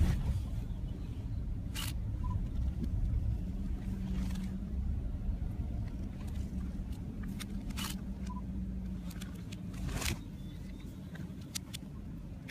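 Car driving in reverse, its engine and tyres making a steady low rumble. A level hum holds through the middle, and there are a few sharp clicks or knocks.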